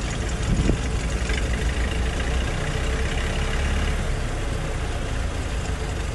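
Heavy construction machine's diesel engine running steadily with a low rumble.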